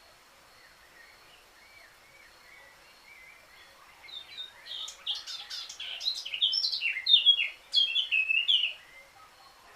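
Eurasian blackcap singing: a quiet warble, then from about four seconds in a loud run of fast, varied notes lasting about five seconds.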